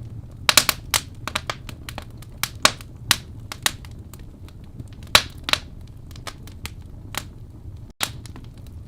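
Wood fire in a fireplace crackling, with irregular sharp pops over a steady low rumble of the flames. The loudest pops come in clusters about half a second in and about five seconds in. The sound cuts out for an instant near the end.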